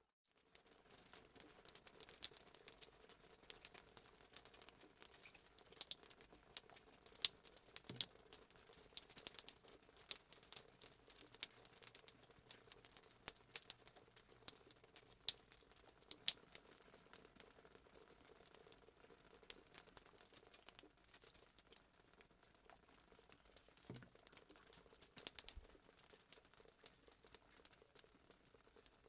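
Fireplace sound effect: a wood fire crackling faintly, with many small irregular pops and snaps over a soft hiss.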